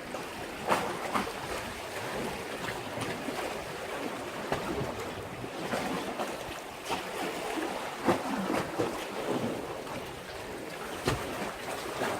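Sea waves washing against a breakwater, with wind on the microphone and a few sudden louder splashes.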